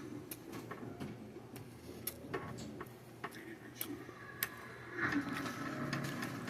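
Cutlery and dishes clinking in scattered, irregular light clicks, with faint voices murmuring in the background about five seconds in.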